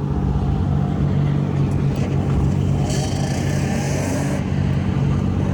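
Car engine running at a steady speed. A hiss rises over it about three seconds in and lasts just over a second.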